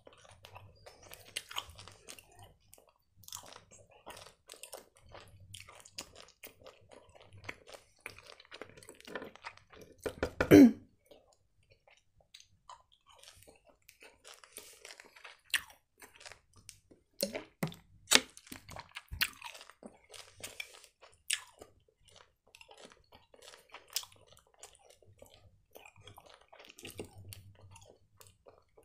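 Close-up chewing of soft gummy candy: wet, sticky mouth clicks and smacks at an irregular pace. One louder low thud comes about ten seconds in.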